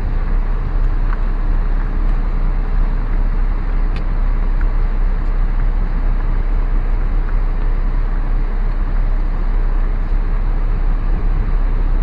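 Steady low rumble of a car creeping along slowly, heard from inside the cabin, with a faint click about four seconds in.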